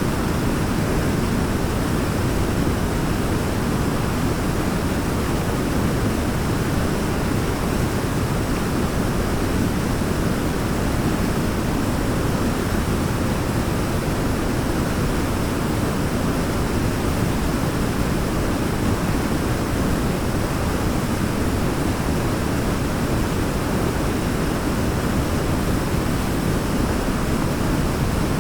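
Forest waterfall rushing steadily: a deep, even wash of falling water with no breaks or changes.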